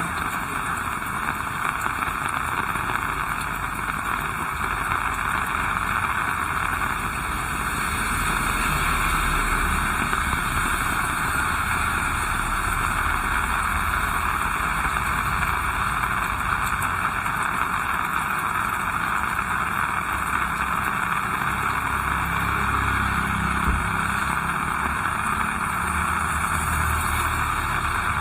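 Steady heavy rain, an even hiss, with a low rumble building up in the second half.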